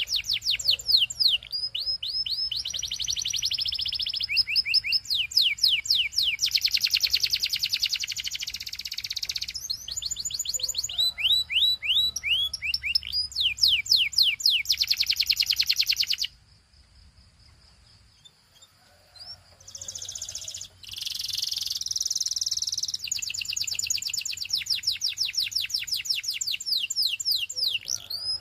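Domestic canary singing: fast trills of rapidly repeated notes, many sweeping downward, in phrases that switch from one trill to the next. The song breaks off about 16 seconds in and, after a few seconds of near quiet and a few scattered notes, starts up again.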